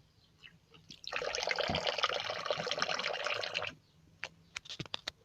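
Water running from a tap into a container, starting about a second in and cutting off abruptly after about two and a half seconds. A few sharp clicks follow near the end.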